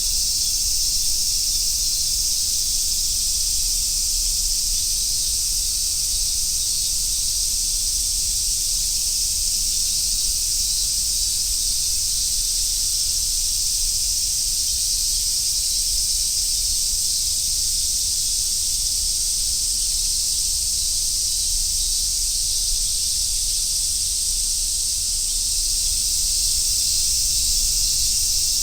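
Cicadas singing in chorus, a steady, unbroken high-pitched drone that does not rise or fall.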